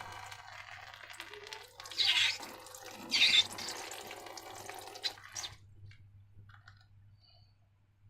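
Thick liquid pouring and squelching, with two louder wet gushes about two and three seconds in. It stops about five and a half seconds in, leaving a few faint clicks.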